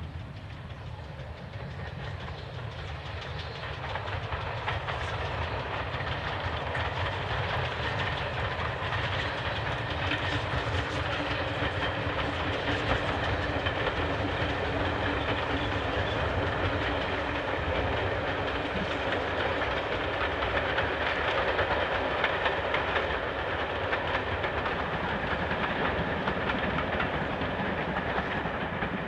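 Train running past at a distance. Its sound builds over the first several seconds and then holds steady.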